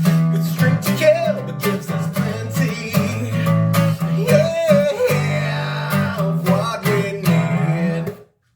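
Guitar strummed in chords with a man's voice singing over it, ending a self-written song. The playing stops suddenly near the end.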